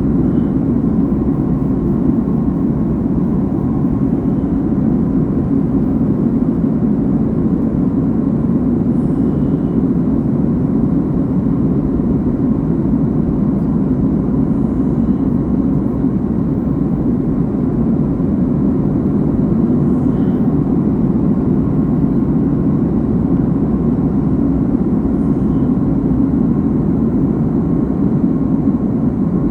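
Airliner cabin noise in flight: a steady, even rumble of engines and rushing air with a faint steady hum above it.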